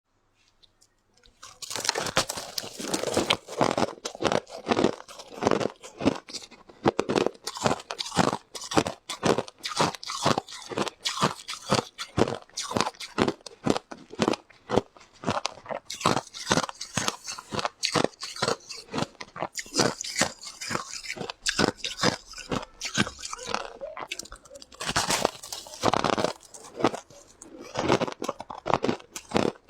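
A person biting and chewing hard ice close to the microphone, a dense run of crunching and crackling that starts about a second and a half in.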